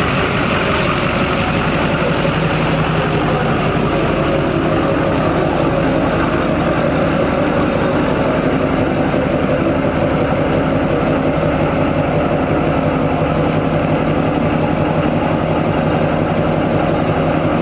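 Diesel pickup truck engine idling steadily, its firing pulses even and its pitch unchanging throughout.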